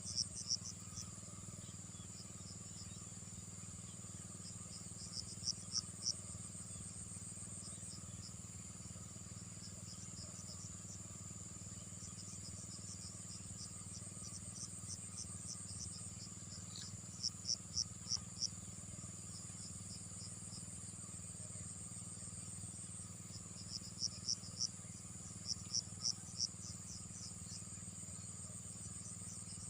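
Insects calling: a steady high-pitched trill with short breaks, and every several seconds a quick run of four to eight loud, sharp chirps, over a steady low hum.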